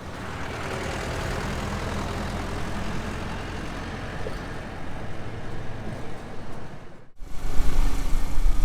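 A steady rushing noise, then an abrupt cut about seven seconds in to the louder, deep rumble of a car's engine and tyres heard from inside the moving car.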